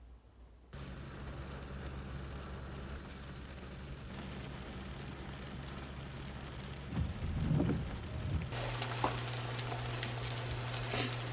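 A fan-like hum starts abruptly about a second in. About eight seconds in, food hits hot oil and begins to sizzle and crackle in a frying pan.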